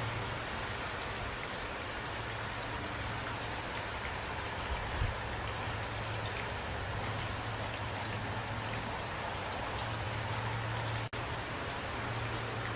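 Steady rain falling, with scattered sharper drop ticks over the even hiss and a low hum underneath. The sound drops out for an instant about eleven seconds in.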